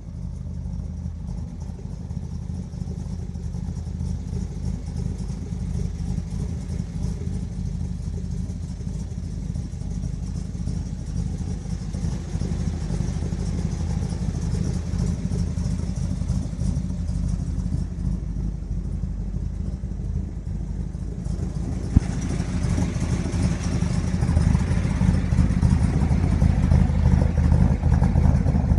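A 1969 Camaro SS's 396 big-block V8 idling steadily through its chambered exhaust, getting louder toward the end. A single sharp click about three-quarters of the way through.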